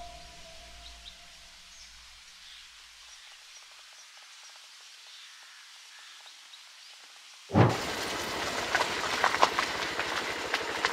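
Background music fading out in the first second or two, then a faint hiss, then an abrupt cut about seven and a half seconds in to loud outdoor noise full of crackles and sharp knocks.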